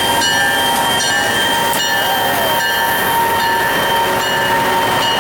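Agawa Canyon tour train rolling slowly into the station. A steady, high-pitched squeal from the train is heard throughout, with scattered clicks and knocks from the cars over the rails.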